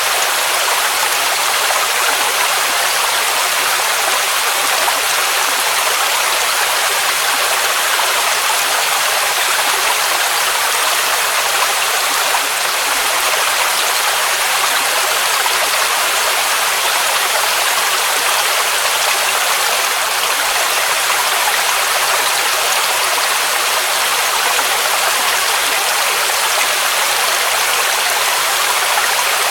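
Waterfall rushing: a steady, even hiss of falling water, with little low rumble.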